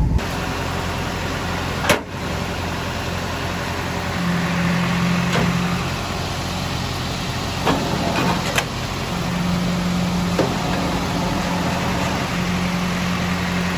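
Car engine and road noise heard from inside the cabin while driving, with a low hum that comes and goes. A few sharp clicks or knocks sound at intervals.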